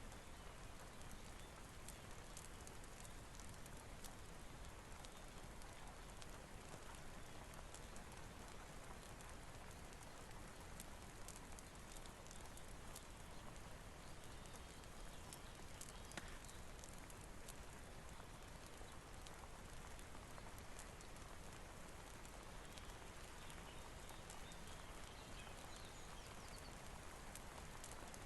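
Faint steady rain hiss with small irregular crackles and pops scattered through it, as of a fireplace burning.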